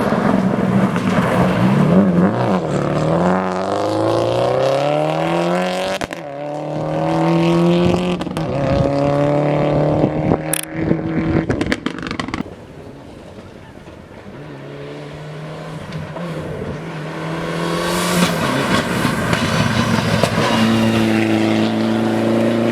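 Rally car engines accelerating hard, revving up again and again with the pitch dropping back at each gear change. There is a sharp click about ten seconds in, and a quieter lull a little later before an engine climbs again and holds a high note.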